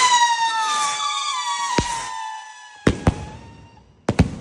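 Consumer firework going off: a rushing launch, then a shrill whistle, slowly falling in pitch, lasting nearly four seconds, with a second whistle joining. Sharp bangs come about two seconds in, twice around three seconds, and twice more near the end.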